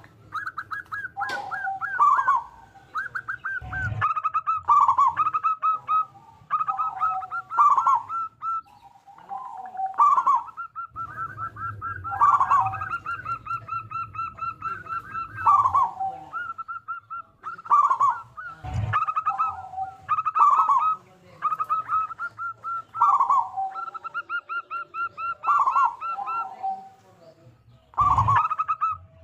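Zebra dove (local perkutut) singing its territorial song over and over. Each phrase is a quick run of short high notes that ends in lower, fuller coos. A few brief low thumps come in between.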